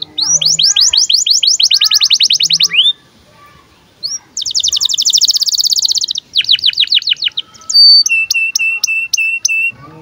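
Male domestic canary in breeding condition singing: a fast trill of rising notes, a short pause about three seconds in, then another dense trill. A run of falling sweeps follows, and near the end a slower series of about seven repeated notes.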